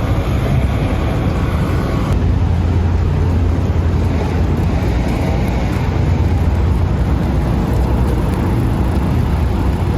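A loud, steady low rumble of motor noise, like a running engine.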